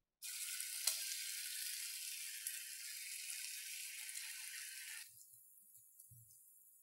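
Chicken tikka pieces sizzling in a hot pan, a steady hiss with a single click about a second in. About five seconds in the sizzle drops suddenly to a faint, high hiss.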